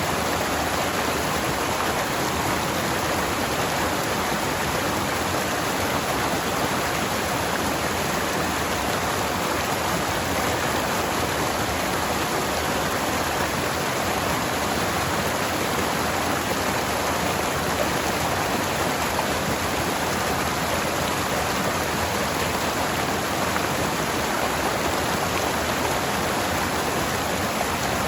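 A forest stream flowing over rocks: steady rushing water with no breaks.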